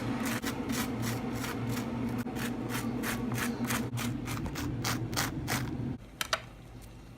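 A steady mechanical hum with quick, regular scraping strokes over it, about three or four a second. The hum cuts off suddenly about six seconds in.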